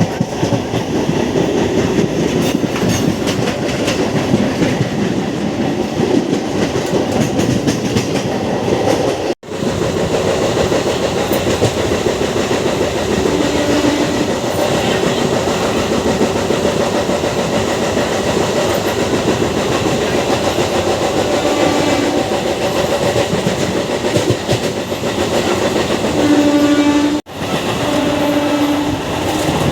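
MEMU electric commuter train running at speed, wheels clattering over the rail joints with a steady rumble, and a train horn sounding in short blasts a few times, the longest near the end.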